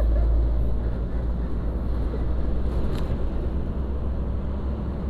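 Steady low rumble of road vehicle noise, with a single sharp click about three seconds in.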